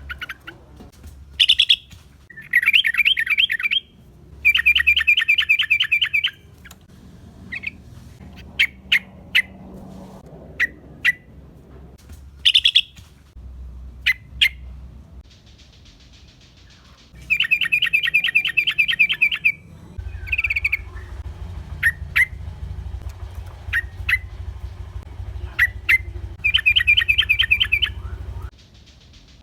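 Yellow-vented bulbul (trucukan) song, played as a lure: fast chattering bursts of a second or two, with short sharp single notes between them. A low hum runs under the last third.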